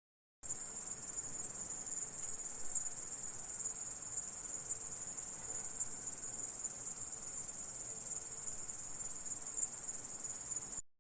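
Grasshopper stridulating: a dense, steady, high-pitched trill that starts abruptly about half a second in and cuts off just before the end.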